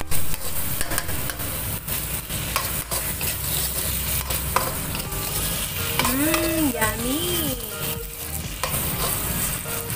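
Prawns and petai (stink beans) frying in sambal paste, sizzling steadily while being stirred in the pan, with frequent short clicks and scrapes of the utensil against the pan.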